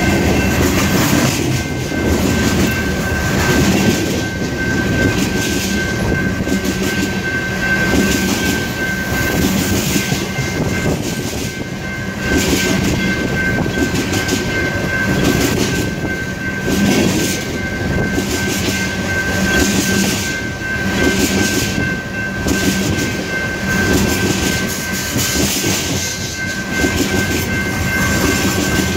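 Empty steel coal gondola cars of a freight train rolling past close by, their wheels clattering irregularly over the rail joints. A steady high-pitched whine sounds under the clatter.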